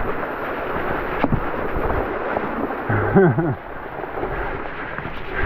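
Bicycle riding through deep floodwater in heavy rain: a steady wash of splashing water, with a brief voiced exclamation about three seconds in and a sharp knock a little after one second.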